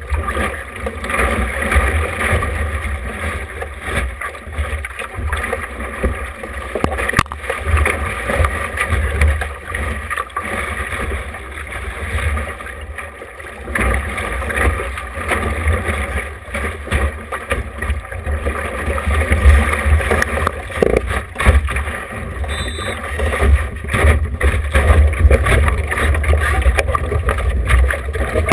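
Wind buffeting an action camera's microphone aboard a small sailboat under way, a gusting low rumble over a steady wash of water noise. The rumble grows louder in the second half.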